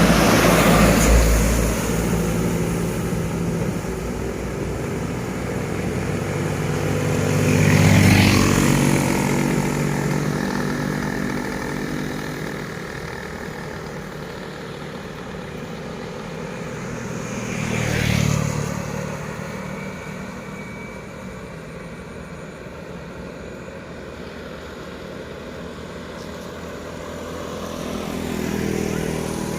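Heavy diesel trucks going by one after another, each engine swelling up and fading as it passes, four pass-bys in all.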